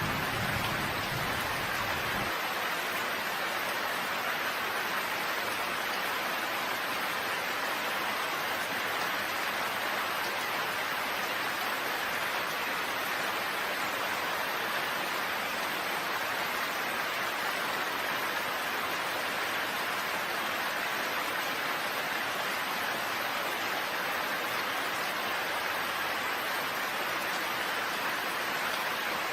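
Steady rain falling, an even hiss of many drops. The tail of a low thunder rumble dies away about two seconds in.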